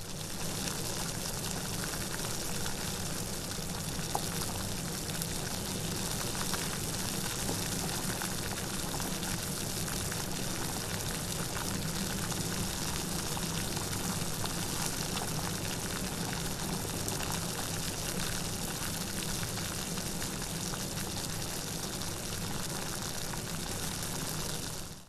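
Steady rainfall, an even hiss of many drops with no break or change.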